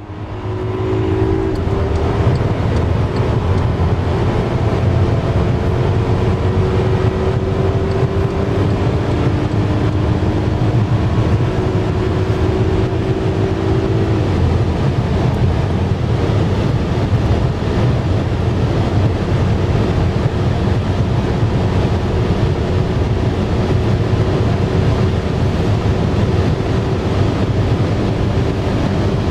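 Volkswagen Passat CC's 3.6-litre V6 under hard acceleration, mixed with heavy road and wind noise. An engine tone climbs slowly through the first half, drops out about halfway, and comes back faintly near the end.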